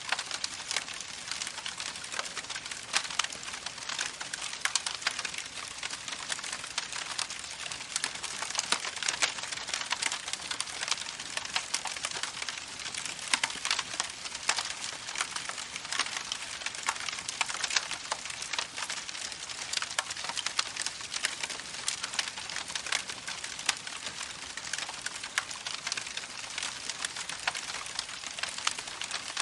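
Campfire crackling continuously, with dense irregular pops and snaps over a steady hiss.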